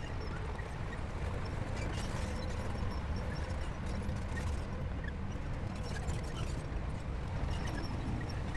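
Crawler bulldozer's diesel engine running steadily, with irregular clanking and clicking from its steel tracks.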